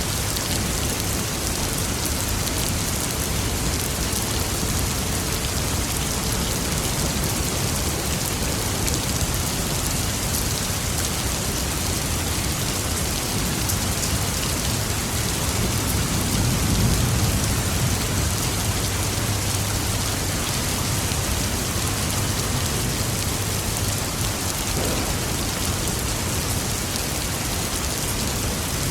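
Steady rain falling in an even hiss, with a low rumble of thunder swelling a little past the middle and fading slowly.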